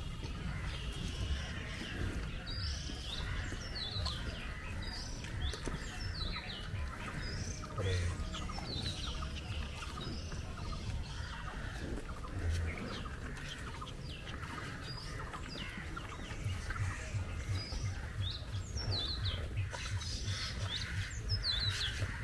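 Small birds chirping: many short, high calls that fall in pitch, scattered through the stretch, over a steady low rumble.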